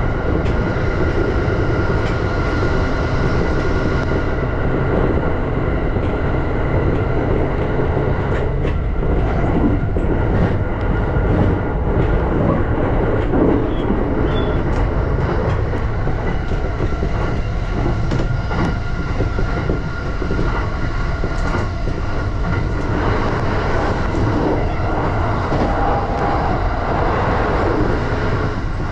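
JR E235 series electric train running at speed: a steady rumble of wheels on rail with a constant hum, and scattered clicks from rail joints, most of them in the middle.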